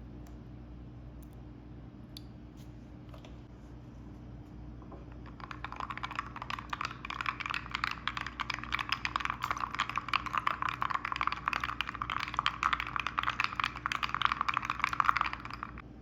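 Rapid, dense clicking that starts about five seconds in and stops abruptly just before the end.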